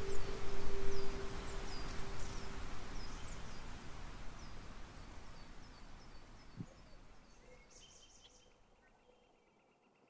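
Woodland ambience: a bird gives repeated short, high chirps over a steady hiss, with a low steady tone dying away in the first few seconds. The whole soundscape fades out toward the end, leaving a faint insect-like trill.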